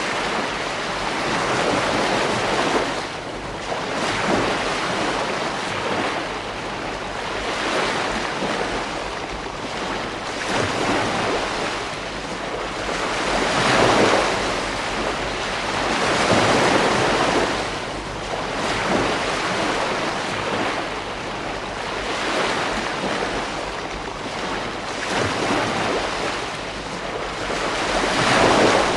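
Beach surf: waves breaking and washing up the shore, swelling and ebbing every few seconds.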